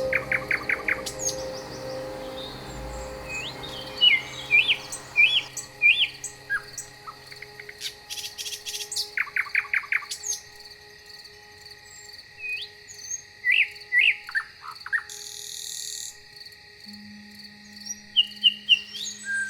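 Several songbirds singing and chirping: fast runs of repeated notes, short trills and rising and falling whistled phrases, coming in bursts with short gaps.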